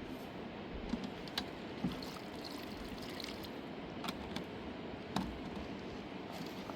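Water trickling and splashing over a steady rush of running water, with a few short sharp drips or splashes.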